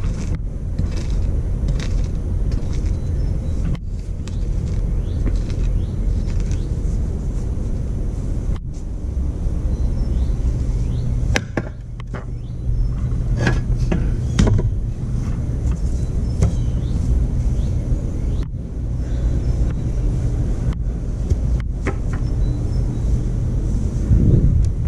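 Stump grinder's 13 HP Honda engine running steadily under load as the cutter wheel grinds into a stump and its roots, with scattered sharp clicks and knocks over the engine drone.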